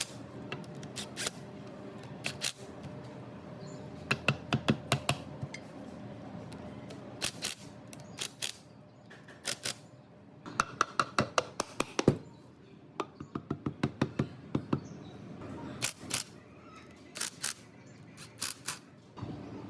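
Hand tool work on metal parts of a mortising machine under restoration: sharp clicks and taps, mostly in quick runs of several a second, with pauses between.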